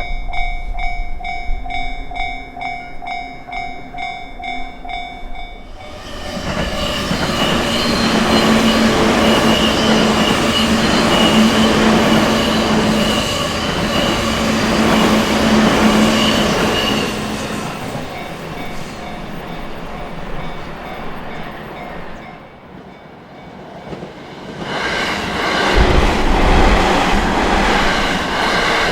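Japanese level-crossing warning bell ringing in a steady rhythmic pattern. About six seconds in, a train passes loudly for roughly ten seconds with wheel and rail noise and a held low hum. The noise eases off, briefly drops away, and rises again as another train passes near the end.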